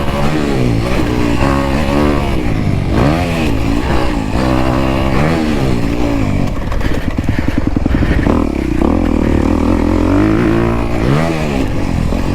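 Dirt bike engine revving up and down over and over, its pitch rising and falling in quick swells as the throttle is opened and closed.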